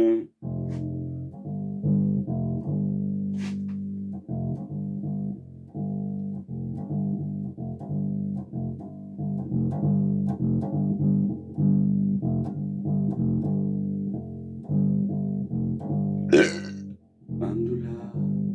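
Bass guitar played as a steady line of plucked notes, with a short, loud sound about sixteen seconds in.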